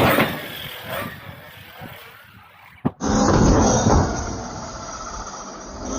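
Arrma Outcast 6S electric RC truck running hard: a loud whoosh right at the start fades into lighter noise. After a sudden cut about three seconds in, a loud low rumbling noise of the truck on the ground follows.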